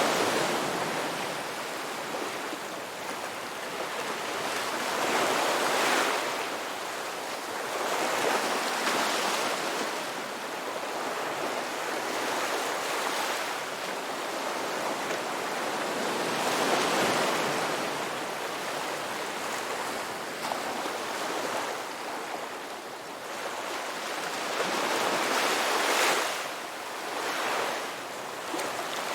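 Ocean waves breaking and washing ashore, a continuous rush of surf that swells with each wave every few seconds, the strongest surges near the start and about two-thirds of the way through.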